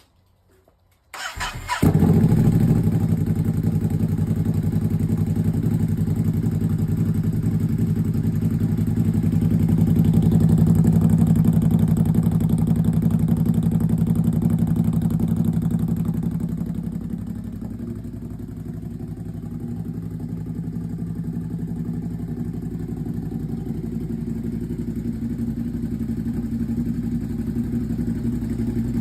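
Ducati 950 SP's L-twin engine, fitted with an SC Project S1 twin exhaust, cranked and started about a second in. It catches at once, runs at a fast idle, then drops to a lower, steady idle after about sixteen seconds.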